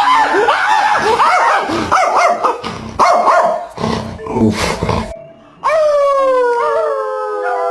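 Dogs vocalizing: about five seconds of quick, pitch-bending yips and whines that stop abruptly, then a long howl, its pitch falling slowly, from just past halfway.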